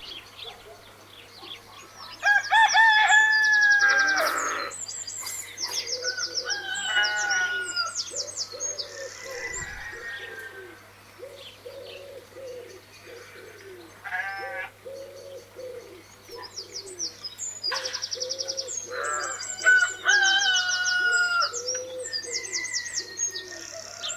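Birds calling: pigeons cooing over and over in a low voice, while small birds chirp and twitter in fast trills. The chirping comes in two busy spells, one near the start and one near the end.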